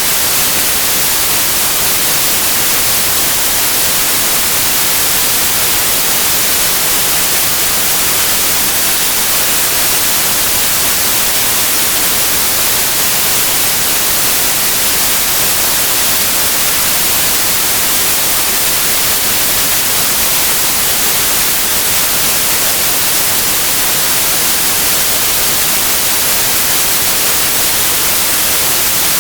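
Steady white noise: an even, unbroken hiss with no melody or rhythm, played as a sleep sound for babies.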